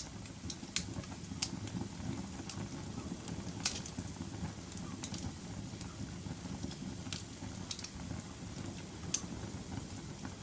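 Wood fire in a fireplace burning with a steady low rumble, with irregular sharp crackles and pops, the loudest about a third of the way in.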